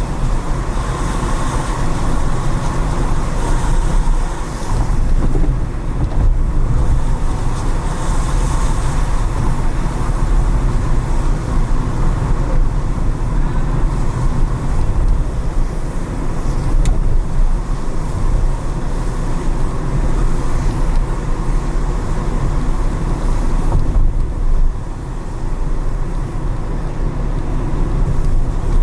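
Car driving on city streets: a steady low rumble of engine and tyre noise, with other traffic passing.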